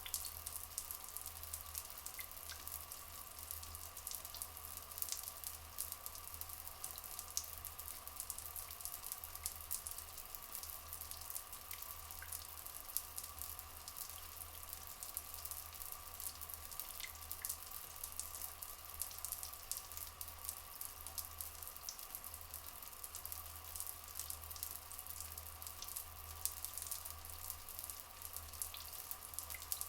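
Rainforest ambience: steady flowing water with a fine, crackly dripping texture. A few faint, brief chirps sound now and then.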